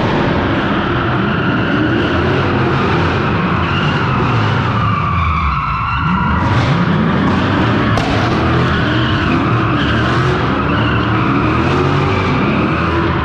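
Straight-piped V8 drift car, its engine revving up and down again and again with tyres squealing as it slides on the warehouse floor.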